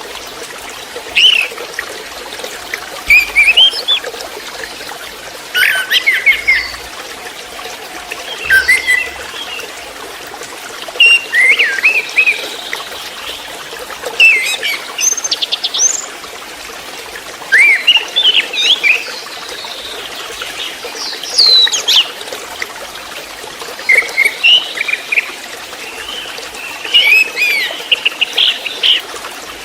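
Orange-headed thrush, a young spotted-plumaged ('trotol') bird, singing short phrases of quick whistles and chirps every two to three seconds over a steady trickle of water.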